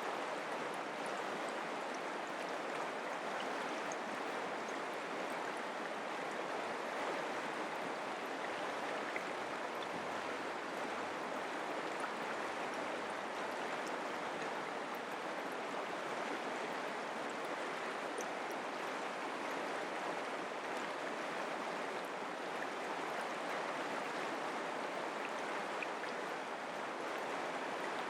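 Mountain creek running steadily, a continuous rush of flowing water with faint small splashes.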